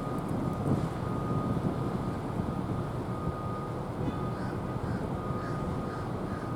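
Steady low rumble of outdoor background noise, with a faint steady high whine and a few faint short chirps.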